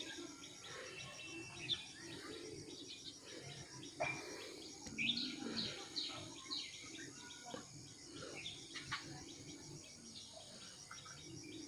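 Birds chirping over steady outdoor background noise, with a cluster of short, sharp calls near the middle.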